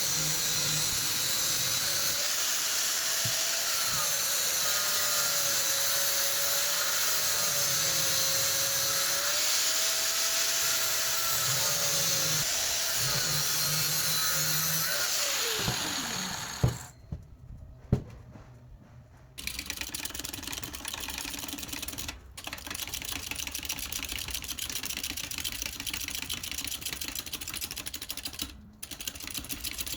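A power tool runs steadily with a high hiss and a wavering whine, then winds down with a falling pitch about sixteen seconds in. After two sharp clicks, a quieter rapid rattle takes over, briefly stopping twice.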